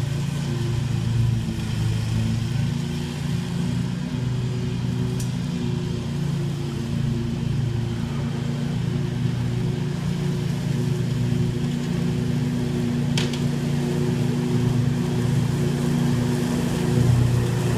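Scag Tiger Cat II zero-turn mower running steadily with its deck mulching leaves, an even engine hum throughout. A single brief sharp click about two-thirds of the way through.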